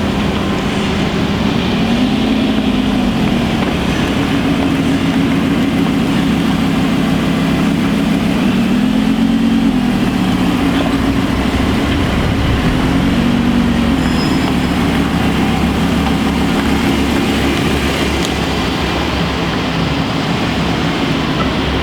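Lamborghini supercar engines idling, the pitch rising and falling gently a few times with light throttle.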